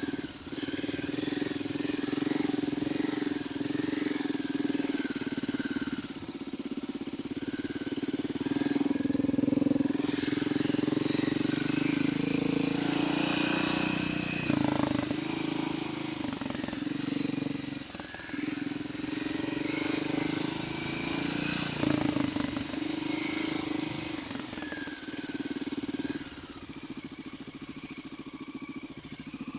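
Dirt bike engine running under way on a trail, its note rising and falling with the throttle and dipping briefly a few times, then settling lower near the end.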